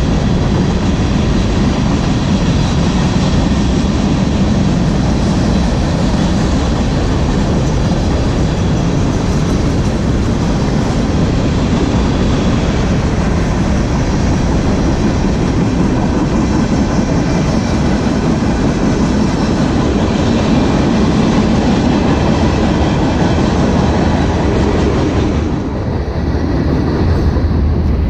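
Freight train cars rolling past on the rails, a loud, steady rumble and clatter of wheels. The noise dips briefly about three-quarters of the way through, then goes on.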